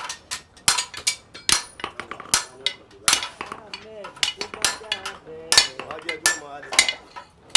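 Blacksmith's hammer blows on metal at the forge, irregular strikes about one or two a second, each with a short metallic ring.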